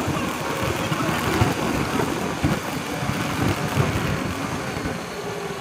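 Motorcycle running along the road, its engine and road noise steady with an irregular low rumble.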